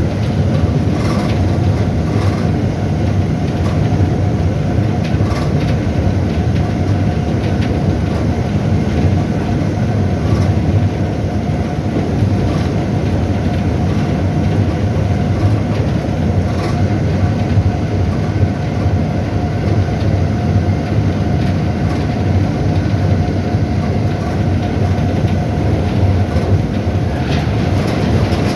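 Train running on rails: a steady, loud rumble with a few faint clicks now and then.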